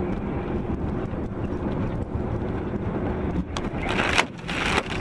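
Car engine and road noise droning steadily inside a moving car's cabin. Near the end come two short bursts of hiss, each about half a second long.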